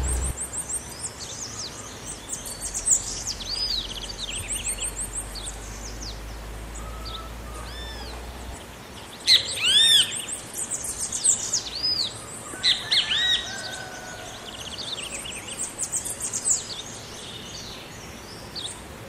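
Great kiskadee and other birds calling: series of short, high, arched chirps, with the loudest bursts about nine and a half seconds in and again around twelve to thirteen seconds.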